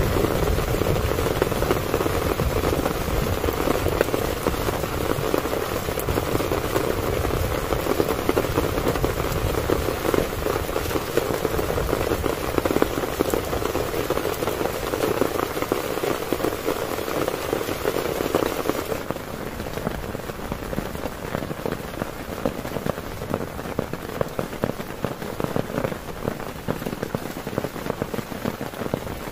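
Heavy rain pattering steadily on a tent. About two-thirds of the way through the sound abruptly turns quieter and duller.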